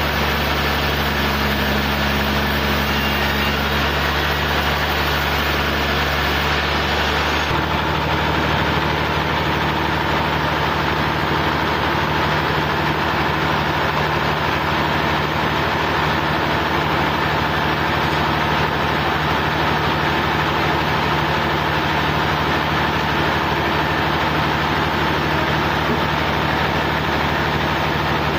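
An engine running steadily with a low, even note that shifts slightly about seven seconds in.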